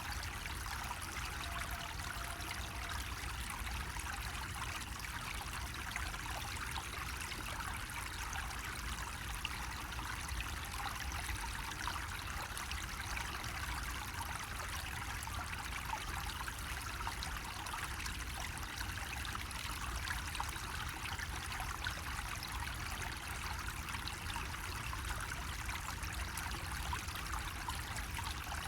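Water running steadily from a bamboo spout and trickling into a basin below, in an even, unbroken splash with a low rumble underneath.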